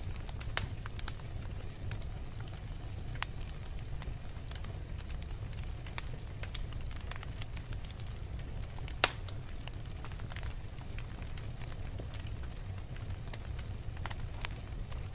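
Wood fire burning in a fireplace: a steady low rumble of flame with irregular crackles and pops from the burning logs, one sharper pop about nine seconds in.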